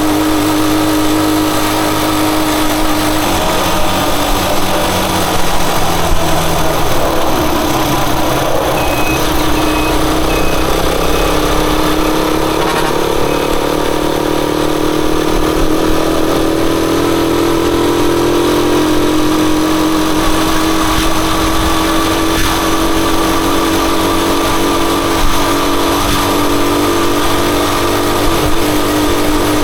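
Rusi Chariot 175 motorcycle engine running while being ridden, its note dipping a few seconds in and then slowly rising before settling back.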